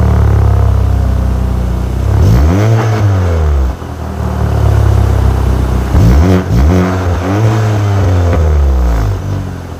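Turbocharged Chevy Cruze engine with an aftermarket downpipe on the stock exhaust and catalytic converters, running loud: a steady drone, then revving up and falling back about three seconds in and several more times between about six and eight seconds.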